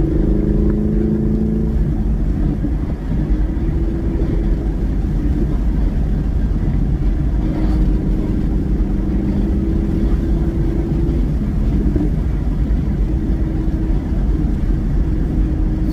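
Manual-transmission car's engine and exhaust droning steadily while driving, over heavy low road rumble, with a brief dip in level about three seconds in.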